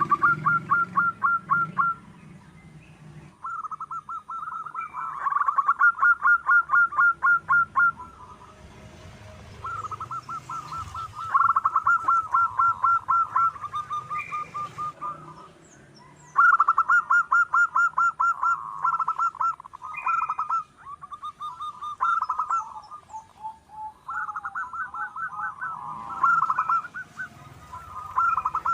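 Zebra dove calling: bouts of rapid, evenly repeated staccato coos, each run lasting a few seconds, one bout after another, with a lower, falling run of notes a little past the middle. Faint high chirps of smaller birds sound behind.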